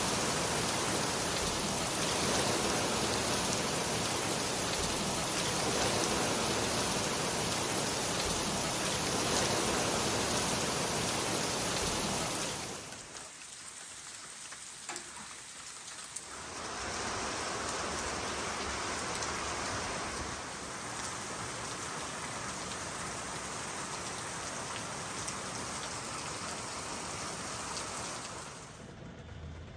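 Heavy rain pouring down steadily, a dense even hiss of drops hitting the ground; it drops quieter for a few seconds about halfway through, then comes back.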